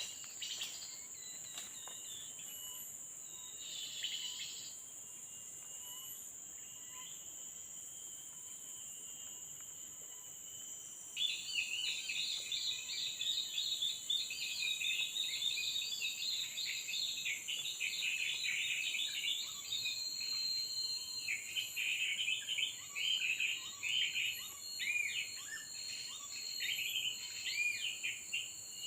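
A steady, high-pitched insect drone throughout, joined about 11 seconds in by a dense run of rapid bird chirps and calls that keeps going to the end. These chirps are bird-luring calls.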